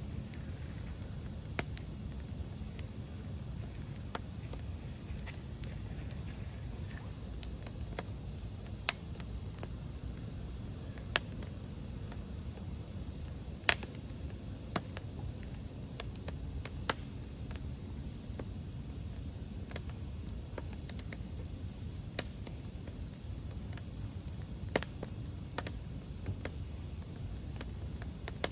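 Crickets chirping in a steady high band over the low rush of a wood campfire, with scattered sharp crackles and pops from the burning logs, one louder pop about halfway through.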